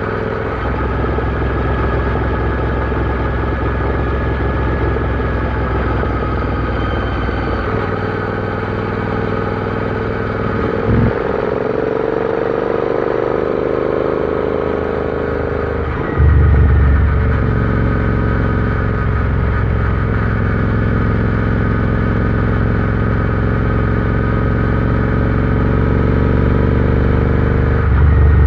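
Royal Enfield Interceptor 650's parallel-twin engine running steadily under way, with a whine that rises and falls through the middle. A click comes about 11 seconds in, and about 16 seconds in the engine suddenly gets louder and deeper and stays that way, as under more throttle.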